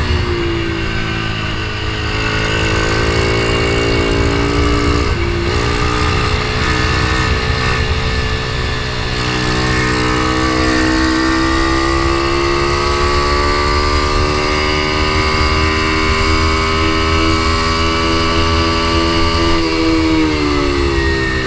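Ohvale mini GP bike's single-cylinder four-stroke engine at racing speed, heard from a camera on the bike. Its pitch dips in the first two seconds and breaks briefly about five seconds in. It then climbs slowly for about ten seconds and drops near the end as the bike slows.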